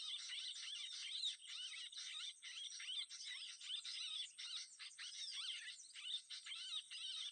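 Continuous, rapid high chirping of small birds, many short rising-and-falling notes overlapping, over a thin steady high-pitched whine.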